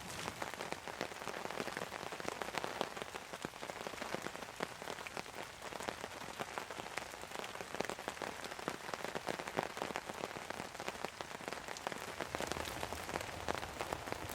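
Heavy rain falling steadily, with many separate drops striking close by as sharp little ticks over the hiss of the downpour.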